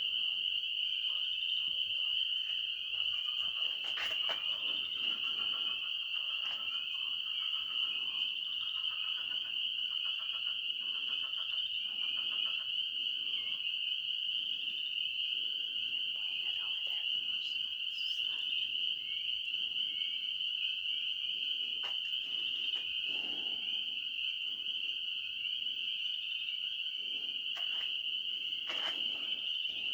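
Night chorus of frogs calling, with overlapping pulsing croaks over a steady high-pitched trill that does not let up.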